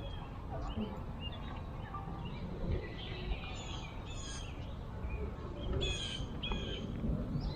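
Songbirds chirping in short, quick bursts of high notes, busiest a few seconds in and again about six seconds in, over a steady low outdoor rumble.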